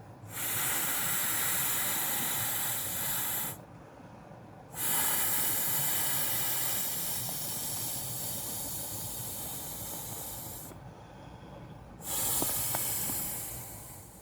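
Loud hissing in three bursts, each starting abruptly: about three seconds, then about six seconds slowly fading, then about two seconds.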